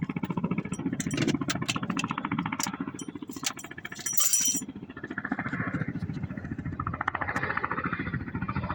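Chinook tandem-rotor helicopter coming in to land, its rotor blades beating in a fast, steady pulse, with a few sharp crackles in the first half.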